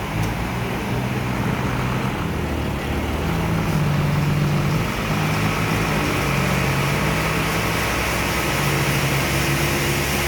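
A large engine running steadily, its low hum shifting up and down in pitch now and then, with a noisy hiss over it.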